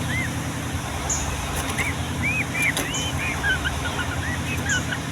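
Yellow-vented bulbul singing: short arched chirps, with a quick run of bubbling notes in the middle, over a steady low hum.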